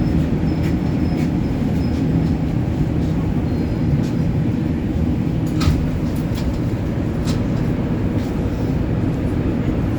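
Inside an MR-73 rubber-tyred metro car: a steady low rumble, with a few sharp clicks, the strongest about five and a half seconds in and another about seven seconds in.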